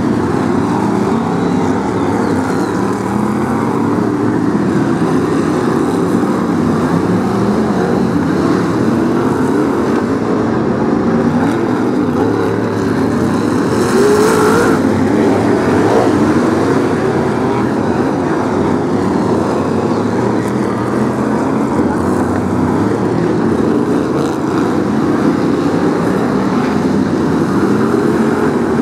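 A pack of Brisca F1 stock cars racing round a shale oval, several V8 engines revving and easing off continuously as they pass, with a louder swell about halfway through.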